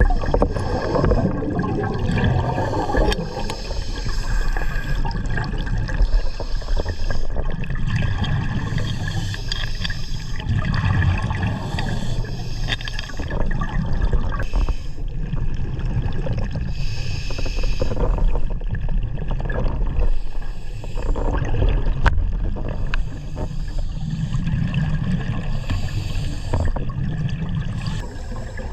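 Muffled underwater water noise with gurgling and bubbling, rising and falling every few seconds over a steady low rumble.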